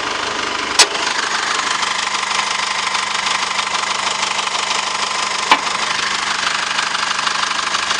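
2.8-litre four-cylinder turbo-diesel of a 2014 Holden Colorado idling steadily, with two sharp clicks, about a second in and again about five seconds later.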